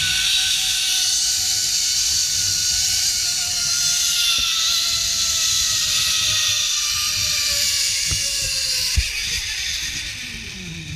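Zip-line trolley pulleys whining as they run along the cable, over a steady hiss; the whine slowly falls in pitch and then drops sharply near the end as the rider slows.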